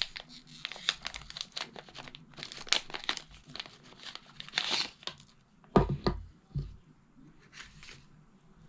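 Packaging being handled: crinkling and tearing of wrapping, a rapid crackle of small clicks for the first few seconds, then a couple of dull thumps about six seconds in.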